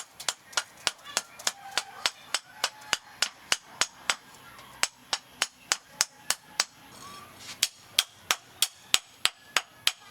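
Hammer striking metal in a fast, even rhythm, about three or four blows a second, with a short pause about two-thirds of the way through.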